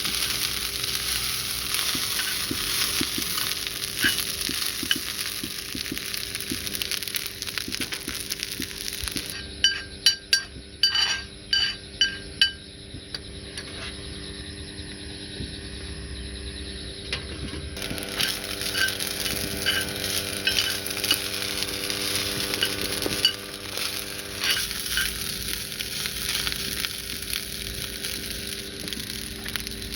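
Food sizzling and frying in a pan while being stirred. About ten seconds in comes a run of sharp metal clinks lasting a few seconds, then the sizzle eases off for several seconds before starting up again.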